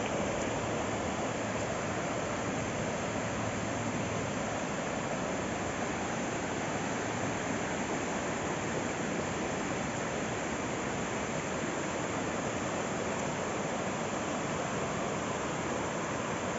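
River water rushing steadily over rocks: an even, continuous rush.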